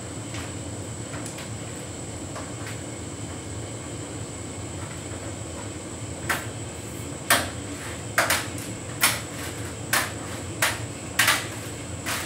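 Hotpoint heat pump tumble dryer running a synthetics cycle: a steady hum, with a series of sharp knocks roughly once a second from about six seconds in.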